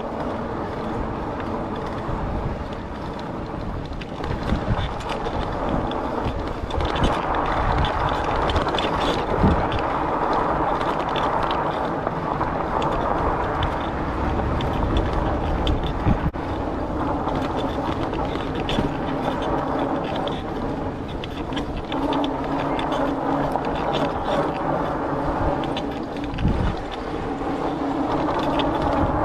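Steady riding noise of a Rad Rover fat-tire e-bike: tyre rumble with a faint, even motor hum, and a few small knocks along the way.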